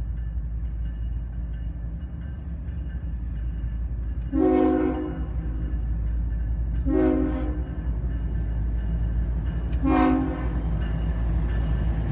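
A diesel freight locomotive sounds its multi-chime air horn in three separate blasts, the first the longest, with a fourth starting at the very end, over the steady low rumble of the train.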